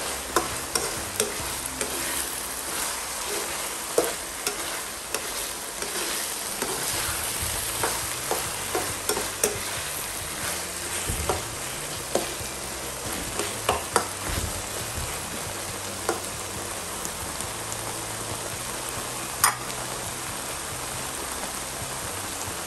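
Milkfish, carrot and potato stuffing frying with a steady sizzle in a nonstick wok while a metal spatula stirs it, scraping and clicking against the pan. The clicks come often for about the first sixteen seconds, then stop, with one last sharp knock near the end as the sizzle goes on.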